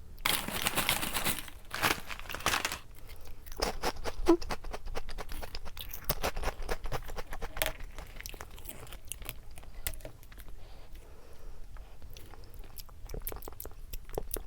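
Close-up crunching and chewing of crunchy O!Gamja potato snack sticks dipped in black aglio sauce. It is loudest in the first three seconds, then settles into a run of crisp crackles that gradually grow quieter.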